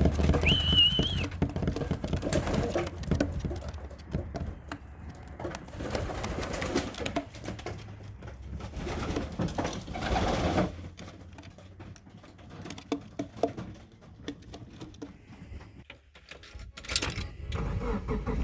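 Racing pigeons cooing in bursts, mixed with scattered short taps and clicks.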